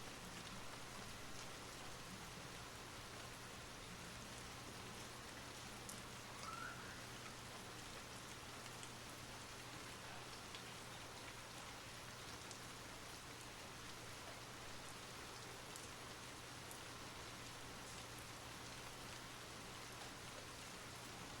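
Steady rain: an even hiss with scattered drops ticking on surfaces.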